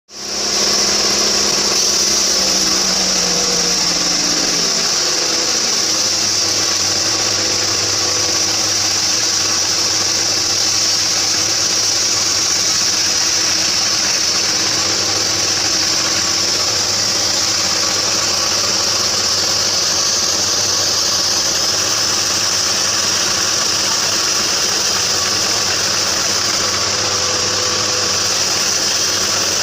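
Homemade band sawmill running steadily: it comes in suddenly, its pitch settles over the first few seconds, then holds as a loud, even machine noise with a strong high hiss.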